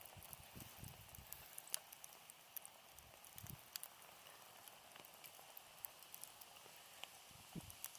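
Wood fire burning quietly: faint crackling with scattered sharp pops and a few soft low thuds.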